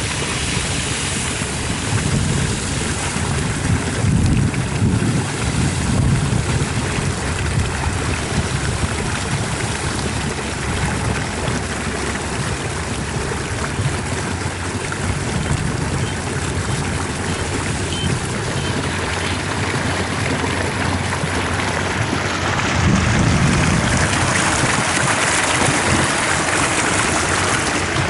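Kubota ER447 combine harvester running steadily while harvesting wheat: an engine hum under a dense rush of cutting and threshing machinery, swelling a little twice.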